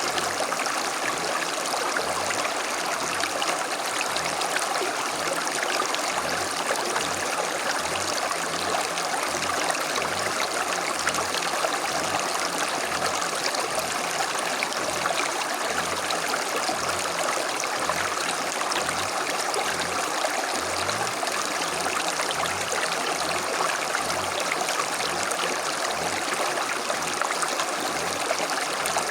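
Creek water flowing steadily over stones, a constant rushing babble with small gurgles.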